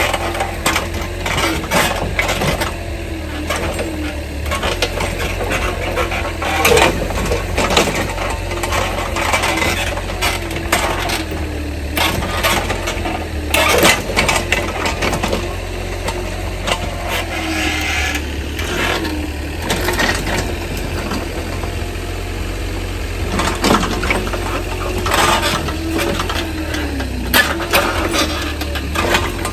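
An engine running steadily, its pitch wavering slightly, with frequent irregular clattering knocks and rattles over it.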